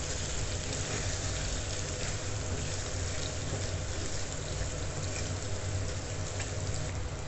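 Chicken pieces in cream sizzling in a hot nonstick kadhai with the flame just turned off, a steady hiss, while a wooden spatula stirs them. A low steady hum runs underneath.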